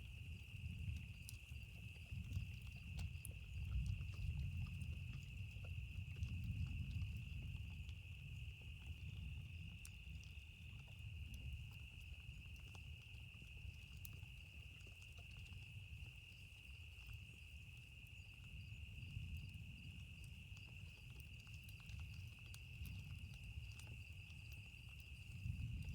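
Campfire-and-thunderstorm ambience: a low rumble of thunder that swells and fades, scattered small crackles from the fire, and a steady high-pitched hum running under it all.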